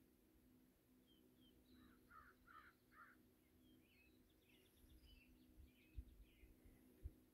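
Faint birdsong: small birds chirping here and there, with a run of four short, lower calls about two seconds in. A couple of brief low thumps near the end.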